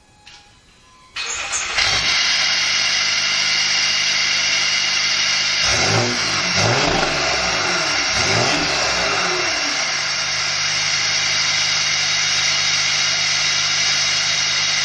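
Jeep Grand Cherokee EcoDiesel's 3.0-litre V6 turbodiesel through a FloPro aftermarket exhaust, freshly tuned. It comes in abruptly about a second in and idles, is revved about three times a few seconds later, then settles back to idle.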